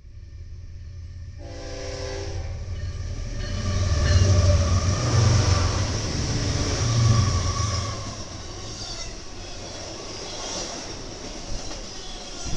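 A train sounds a short horn blast about a second and a half in. The locomotive then passes with a loud, low rumble that peaks mid-way before easing into the steady rolling noise of the cars.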